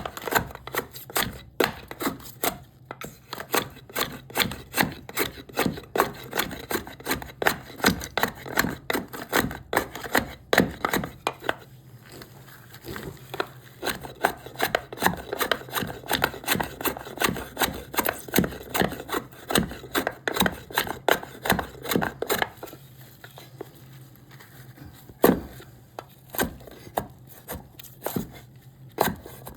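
Hand tool chiseling and cutting into cherry wood: a run of short sharp strikes, about two a second. It eases off for a few seconds about two-thirds of the way through, with one loud knock.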